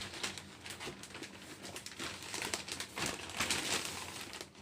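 Packaging rustling and crinkling as it is handled, in irregular bursts.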